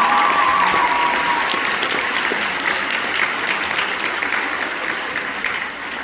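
Audience applauding, loudest at first and slowly dying down.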